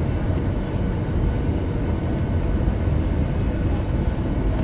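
Boeing 737-700 cabin noise: the steady low rumble of its CFM56 engines and airflow, heard from inside the cabin, with a faint steady hum above it.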